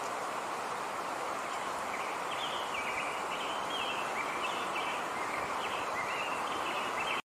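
Outdoor ambience: a steady, even rush of background noise, with a small bird chirping a run of short high notes from about two seconds in. The sound cuts off suddenly near the end.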